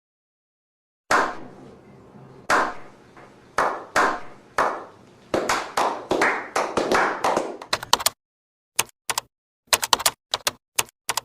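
A series of sharp taps, each dying away quickly, spaced irregularly and coming faster in the middle, then breaking into short clusters of quick clicks near the end with silence between them.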